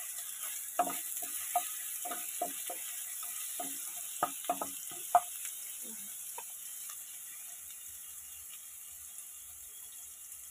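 Green chillies, ginger and whole spices sizzling in hot mustard oil in a nonstick kadai, with a wooden spatula stirring and knocking against the pan for the first six seconds or so. After that only the steady sizzle goes on, slightly quieter toward the end.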